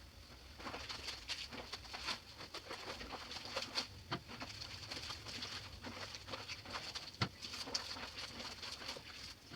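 Clothes being hand-washed in a basin: irregular splashing and sloshing of water with the wet scrub and slap of fabric.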